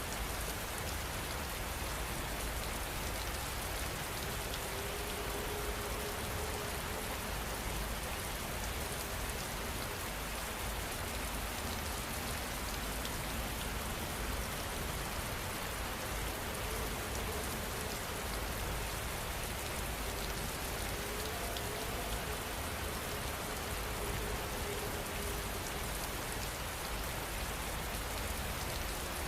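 Heavy rain falling steadily, an even hiss of many drops that keeps the same level throughout.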